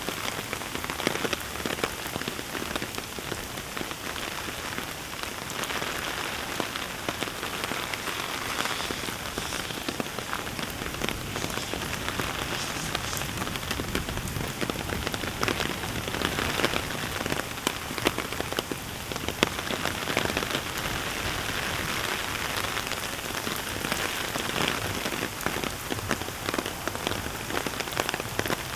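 Heavy rain falling steadily: a dense patter of drops striking surfaces close by.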